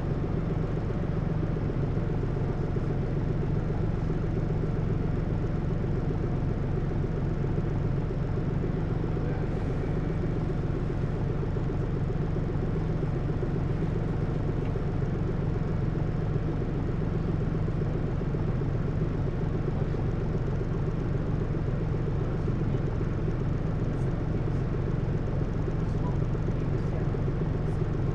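Hino U-HT2MLAA route bus's diesel engine running at an even, unchanging speed with a steady low hum, heard from inside the cabin. The bus is one whose running sound tends toward abnormal noise, which the recordist likens to a sister bus near the end of its service life.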